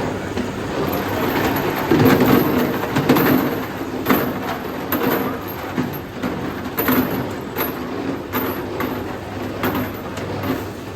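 Machinery running steadily in a metal workshop, with irregular metallic knocks and clinks every second or so.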